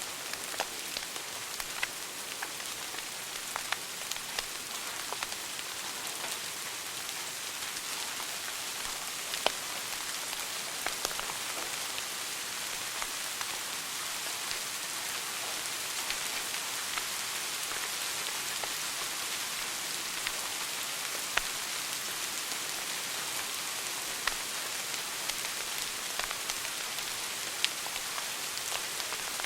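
Wood fire burning in a fireplace: a steady hiss with frequent, irregular crackles and occasional louder pops.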